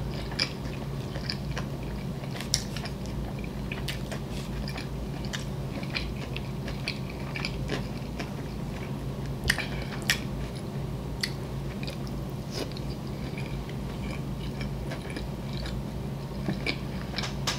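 Close-miked mouth sounds of a person chewing a spicy shrimp sushi roll: irregular wet smacks and small clicks, with a few sharper clicks standing out, over a steady low hum.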